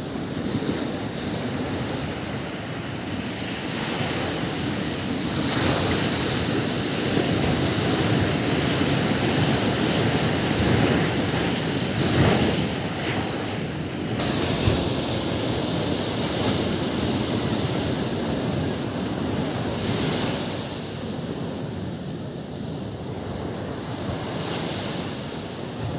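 Sea surf breaking and washing onto the beach, with wind buffeting the microphone. The wash swells louder through the middle and eases off toward the end.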